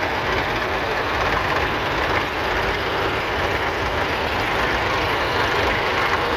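Vintage tractor engines running steadily, a dense, even mechanical din with a rapid low pulsing.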